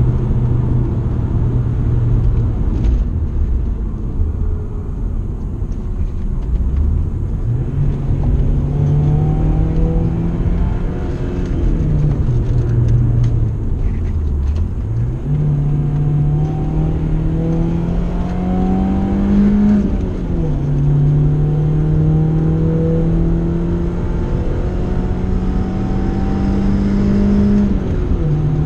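BMW E36 3 Series engine heard inside the cabin while driven hard: the engine note climbs under acceleration and drops back sharply at each gear change, several times, with one deep dip in revs about halfway through before it picks up again.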